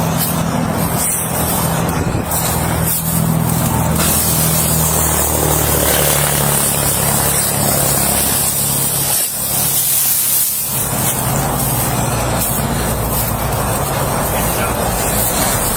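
A car engine running with its pitch shifting as the stuck car is driven backward out of the spot where it is caught.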